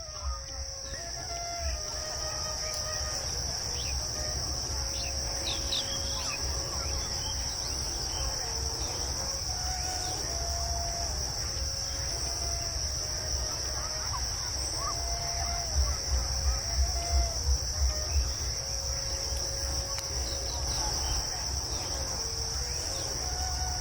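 A steady, high-pitched insect chorus, with a few short bird chirps and a low rumble underneath that swells in a run of pulses about two-thirds of the way through.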